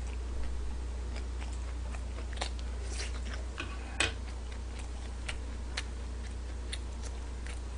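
A person chewing a mouthful of yaki udon noodles, heard as scattered soft clicks and smacks, one sharper click about four seconds in, over a steady low hum.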